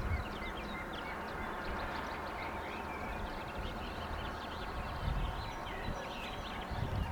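Small birds chirping in many short calls, over a low rumble of wind on the microphone.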